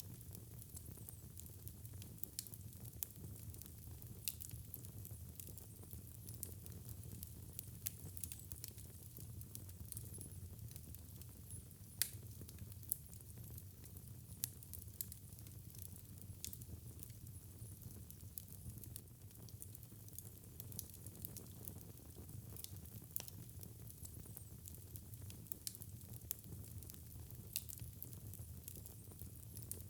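Wood fire burning in a fireplace: a steady low rumble of the flames with frequent irregular crackles and snaps, one sharper pop about twelve seconds in.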